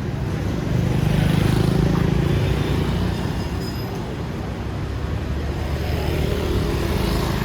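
Street traffic: motor vehicle engines running, with one passing close and louder about a second in and another near the end.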